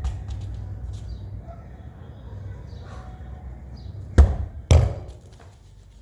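A football thudding twice, about half a second apart, over a steady low rumble.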